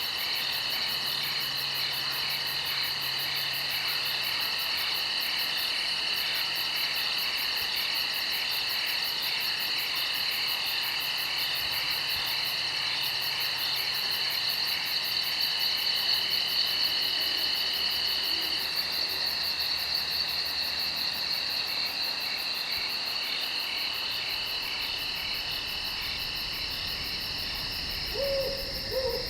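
Steady chorus of night insects, a high continuous trilling with fine rapid pulsing, with two short low calls near the end.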